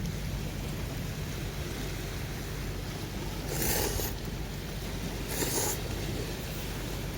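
Steady wind rumbling on the microphone, with two short rushes of air about three and a half and five and a half seconds in.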